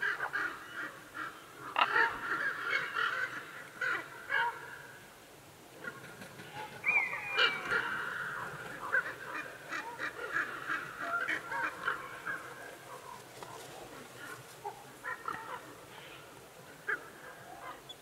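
Birds calling repeatedly in busy clusters of short calls, with a single falling whistled call about seven seconds in.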